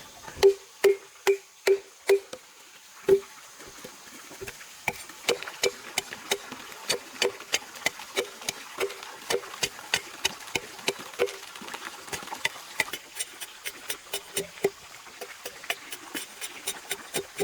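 A steady series of sharp taps or knocks, about two to three a second, with a short hollow ring on the loudest strikes in the first few seconds.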